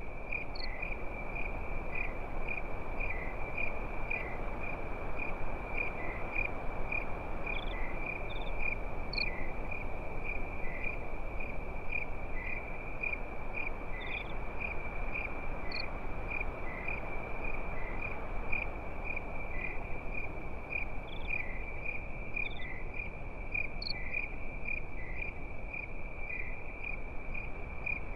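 Crickets chirping in a steady, unbroken high trill with a regular pulse, a few higher chirps scattered over it, above an even rushing background hiss.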